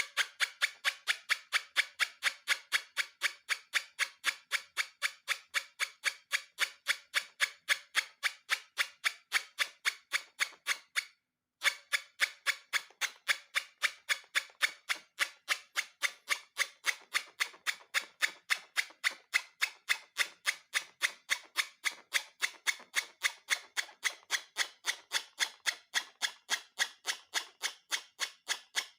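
Sharp, evenly spaced clicks, about three a second, broken by a short silence about eleven seconds in.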